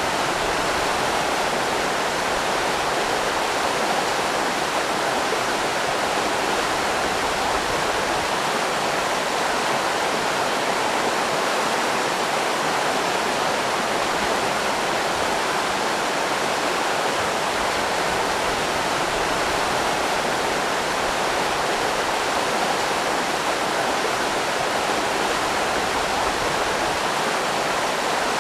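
River rapids rushing, a steady unbroken roar of water with no changes.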